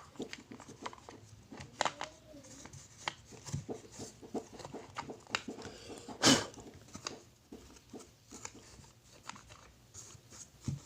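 Light clicks, taps and rubbing of hands cleaning and handling the parts of an opened nebulizer, with one louder knock about six seconds in.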